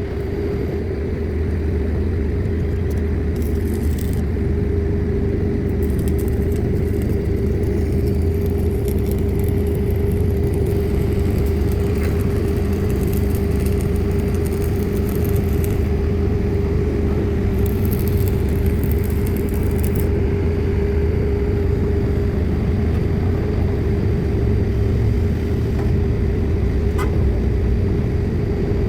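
Heavy machinery of a diesel-hammer pile-driving rig running steadily: a loud low rumble with a constant whine over it.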